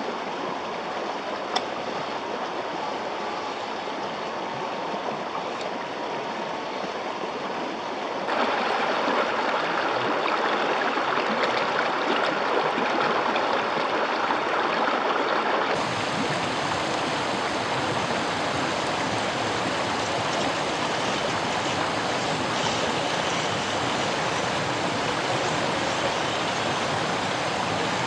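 River water rushing and flowing steadily over rocks. The sound jumps louder about eight seconds in and shifts again about sixteen seconds in, as between different spots along the stream.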